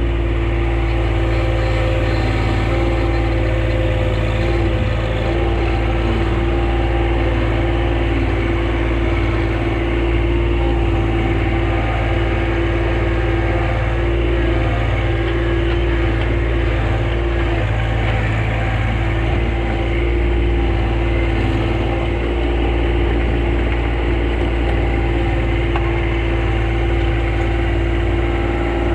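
Small John Deere compact tractor's engine running steadily at a constant speed, with no clear revving.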